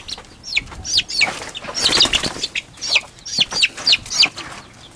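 Baby chicks peeping repeatedly in short, high, falling notes, several a second, with a burst of rustling or flapping about two seconds in.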